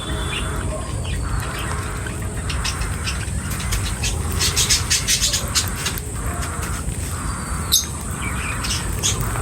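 Birds chirping: a quick run of short, sharp chirps in the middle and another near the end, over a steady low rumble and a steady high-pitched whine.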